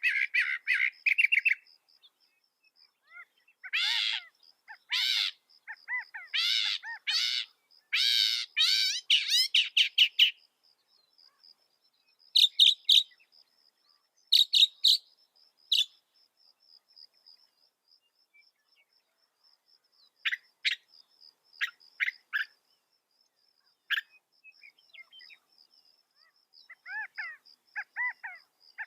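Mockingbird singing: bursts of varied phrases, each note repeated several times, broken by pauses of a few seconds. A faint, rapid high chirping runs steadily underneath.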